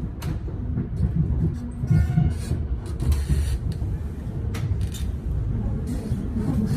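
Melbourne suburban electric train running, a steady low rumble with several sharp clicks and knocks.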